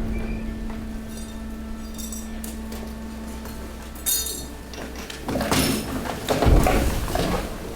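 Hydraulic waste compactor pressing mixed waste: a steady pump hum under bursts of crunching and clinking as glass and debris are crushed, once about four seconds in and again from about five and a half to seven seconds.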